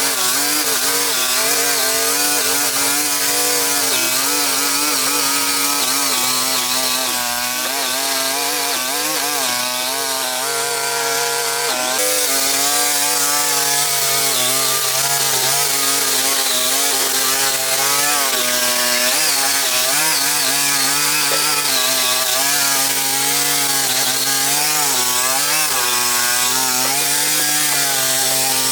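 Small engine-driven power tool running without a break, its pitch wavering up and down as the load on it changes.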